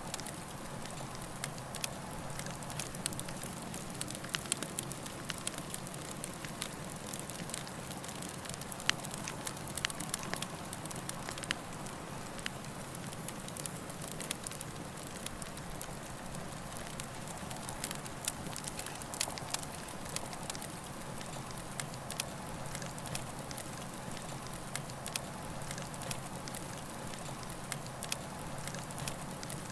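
Campfire burning with a steady hiss and frequent irregular pops and crackles of burning wood.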